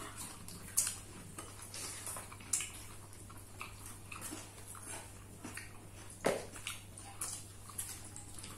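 Close-up chewing and wet mouth clicks of a person eating chicken curry, scattered irregularly, with a sharper knock about six seconds in, over a steady low electrical hum.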